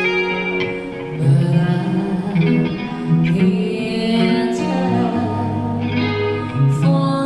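Live band playing a song: guitar with a singing voice.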